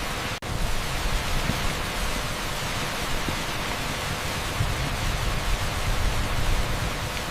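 Heavy downpour on an asphalt street: a steady, dense hiss of rain with no distinct drops, dipping for a split second about half a second in.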